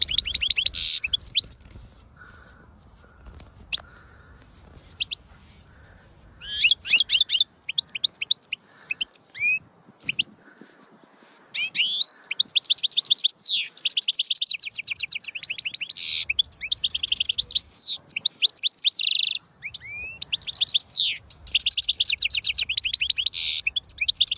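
European goldfinch singing: rapid twittering, trilled phrases with gliding notes, in bursts. A few single call notes come between the bursts early on, and the song grows denser and louder from about six seconds in.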